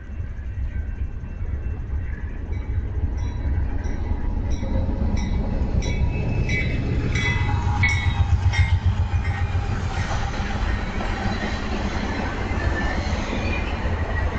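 BNSF diesel locomotives leading a track geometry train approach and pass, with a steady low engine rumble that grows louder. Wheels click in a regular rhythm over the rails, and a tone drops in pitch as the train goes by.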